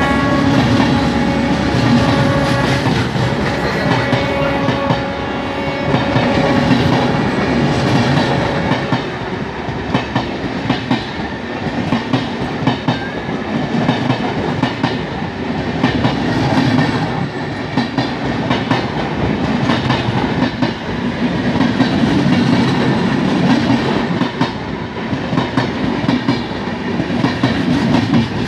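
Shatabdi Express train running at about 100 km/h: loud, steady rail noise with rapid clickety-clack of the wheels over the track. A steady tone sits over the noise for the first nine seconds or so.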